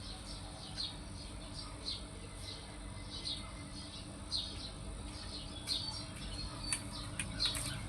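Small birds chirping, with short high chirps coming irregularly, over a faint steady low hum.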